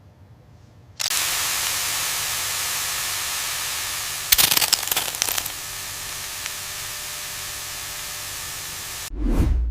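A loud, steady hiss that starts suddenly about a second in, with a short burst of crackling near the middle; a low thud comes in just before the end.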